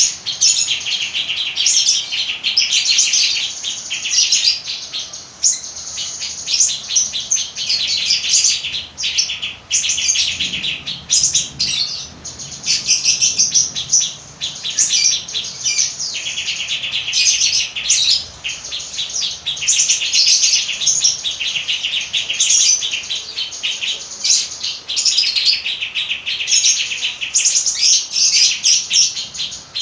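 A songbird singing continuously in fast, high, chattering trills, phrase after phrase with brief pauses between them.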